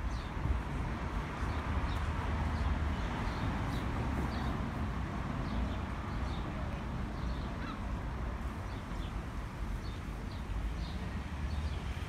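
Small birds chirping in short, high notes scattered throughout, over a steady low rumble.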